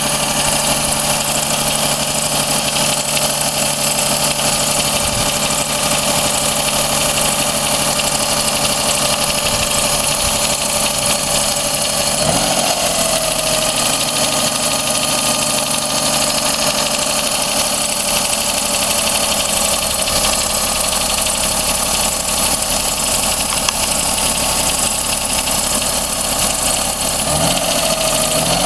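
Daihatsu Cuore L7's 1.0-litre three-cylinder EJ-DE engine idling, briefly revved about halfway through and again near the end, with a metallic ticking in the background that rises with engine speed and does not come from the cylinder head. The owner asks whether it is piston slap or rod bearing damage.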